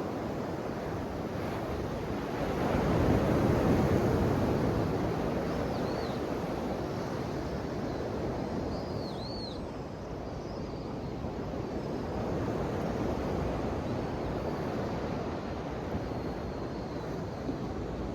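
Ocean surf: waves washing continuously, with one wave swelling up and breaking loudest about three seconds in, then a steadier wash. A couple of faint high chirps come through the surf partway through.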